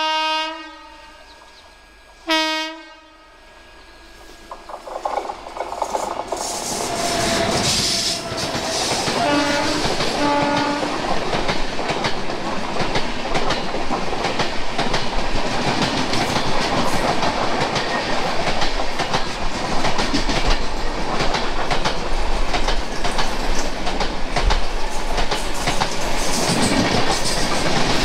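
Indian express train horns: a long blast ending just after the start and a short one about two seconds in. Then the rumble of an oncoming express grows, with two short horn toots near ten seconds. From about twelve seconds its coaches pass close on the adjacent track with loud rushing wheel clatter, heard from the open doorway of a moving coach.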